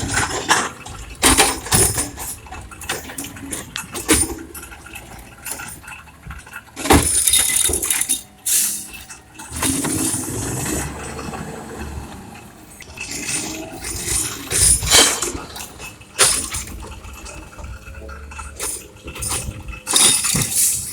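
Recyclables being dumped into a recycling truck: repeated bursts of crashing and clinking, a few seconds apart, with the truck running between them.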